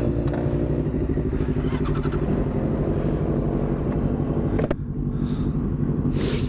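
Motorcycle engine idling steadily just after starting up, with a single sharp click about two-thirds of the way through.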